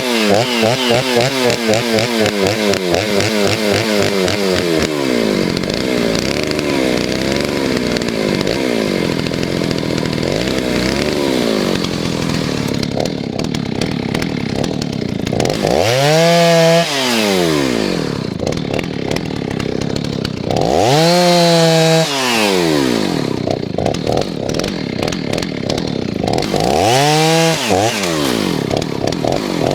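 Stihl 039 two-stroke chainsaw running, its idle screw just turned in a touch to bring down a high idle. It idles with a pulsing, uneven beat for the first few seconds, then runs steadily, and three times it is revved up and let back down.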